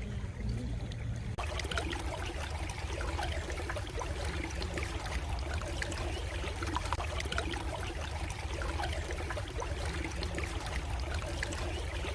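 A stream trickling and babbling, over a steady low rumble. The trickling sets in abruptly about a second in.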